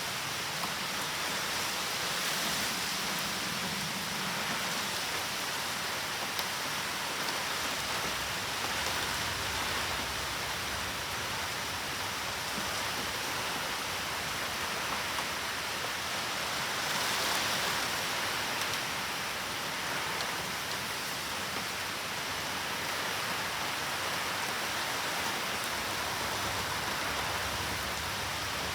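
Heavy typhoon rain falling steadily, swelling briefly a little past halfway.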